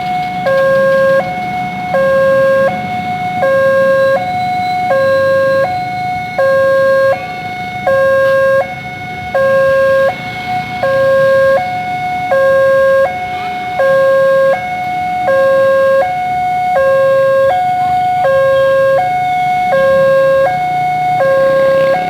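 Railway level-crossing warning alarm sounding its repeating two-tone signal, a low and a high tone alternating evenly about once a second, over steady road-traffic noise.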